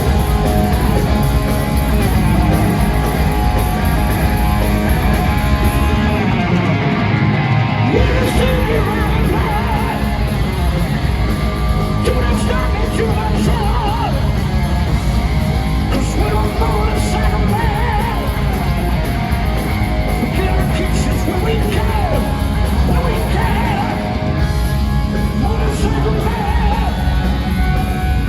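Heavy metal band playing live at full volume: distorted electric guitars, bass and drums under a sung, shouted lead vocal. The lowest bass and kick drop out for about two seconds around six seconds in, then come back in.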